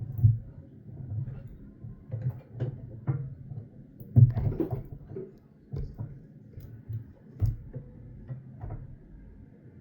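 Scattered light knocks and handling noises at an irregular pace, the loudest a little over four seconds in.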